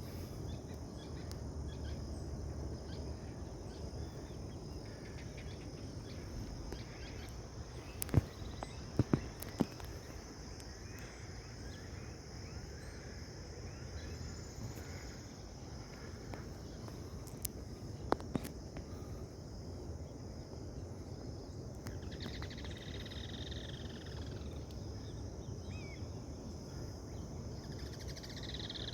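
Outdoor nature ambience: a steady high insect drone, with a few sharp clicks about a third of the way in and again midway, and a few short falling bird-like calls near the end.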